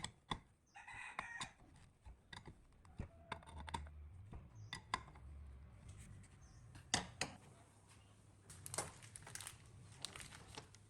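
Scattered light clicks and knocks of hand work, with a brief fowl-like call about a second in.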